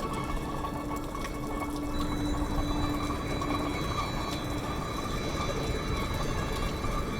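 Steady sound of running water, even throughout.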